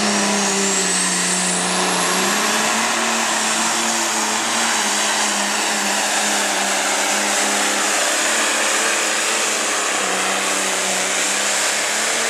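Turbocharged diesel pulling tractor at full throttle under load as it pulls the weight transfer sled down the track. A steady engine note runs under a dense roar, with a high turbo whine rising over the first two seconds.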